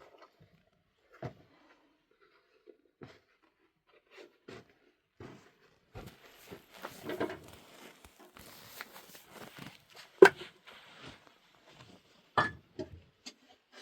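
Handling noises: scattered clicks and knocks with a stretch of rustling in the middle, and two sharper knocks near the end, the first the loudest.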